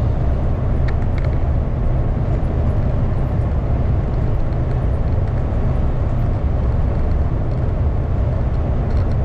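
MAN lorry's diesel engine running with a steady, deep rumble.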